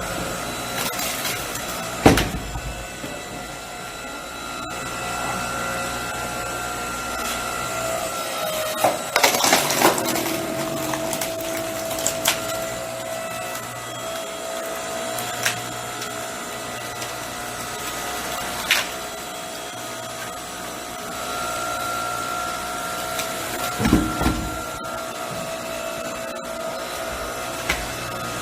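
Electric hydraulic log splitter's motor and pump whining steadily while the ram drives the wedge into a thick log, with the wood cracking and splitting sharply several times, loudest about 2 s in, around 9–10 s and about 24 s in.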